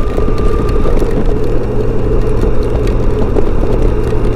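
Steady wind and road noise of a Honda Gold Wing motorcycle riding in rain, muffled by the plastic bag wrapped over the camera.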